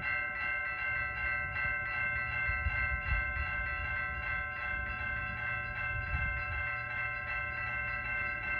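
Railroad grade-crossing warning bell ringing continuously with the crossing activated, an even repeating clang over a low rumble.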